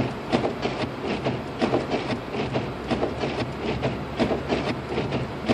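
Inside the cabin of a Lexus IS250 AWD driving slowly on a snow-covered road: a steady low drone with rapid, irregular ticking and clicking over it, several clicks a second.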